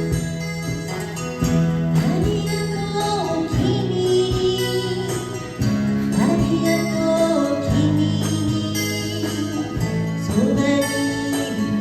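A song performed live: a voice singing over acoustic guitar accompaniment.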